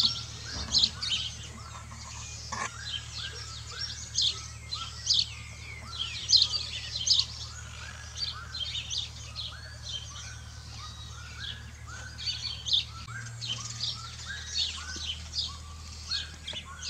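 Several small birds chirping and twittering, with a short arched note repeated about twice a second, over a low steady hum.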